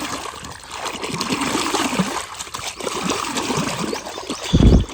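Water splashing and trickling as a muddy plastic toy road sweeper is scrubbed and rinsed by hand in pond water. There is a short, loud thump near the end.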